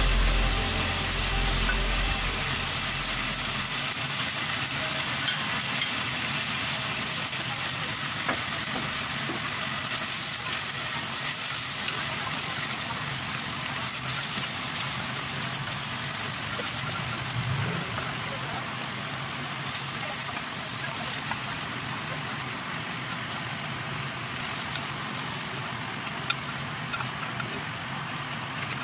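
Chicken livers frying in butter in a glass pot: a steady sizzling hiss that slowly grows quieter, with an occasional sharp knock of the wooden spoon as they are stirred.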